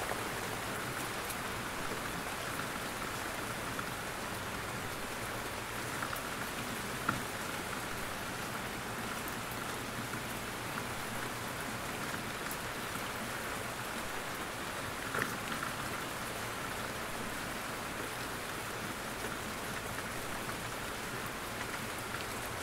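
Steady rain falling in a forest, an even hiss of drops on leaves, with an occasional louder single drop landing close by.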